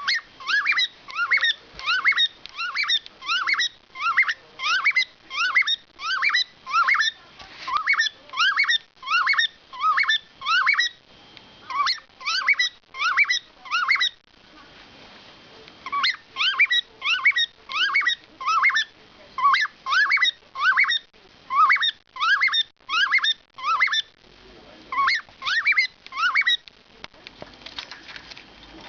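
Male cockatiel singing a repeated whistled song of short, quick rising notes, about two a second. It pauses briefly midway and stops shortly before the end.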